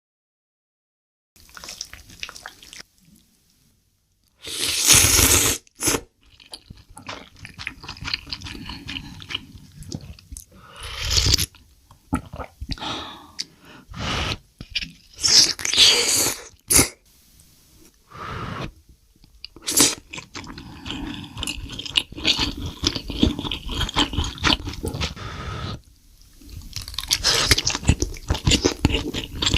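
Close-miked eating: crunchy bites and chewing in irregular bursts, with several loud crunches among quieter chewing.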